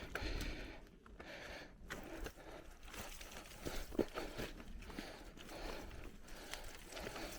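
Bicycle rolling over a rough dirt forest track: tyres crunching and scraping over gravel and roots, with scattered clicks and rattles and one sharp knock about four seconds in.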